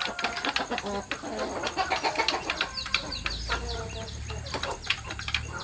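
A flock of chickens clucking and cheeping, mixed with many short clicks and scuffles. A low rumble comes in about halfway through.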